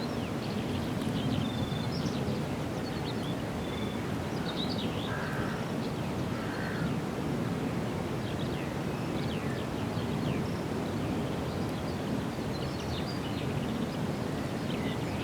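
Small birds chirping and twittering, with a crow cawing twice, about five and seven seconds in, over a steady low rumble.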